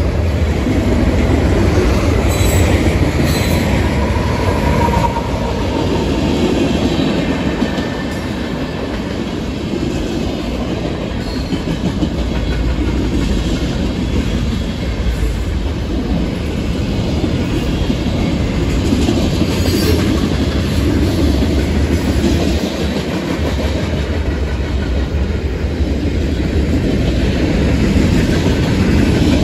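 Freight train cars rolling past at close range: a steady rumble of steel wheels on the rails as the long train goes by.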